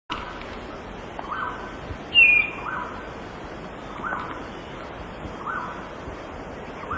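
Birds calling: a short call repeated about every second and a half, with one louder, higher note that falls in pitch about two seconds in, over a steady background hiss.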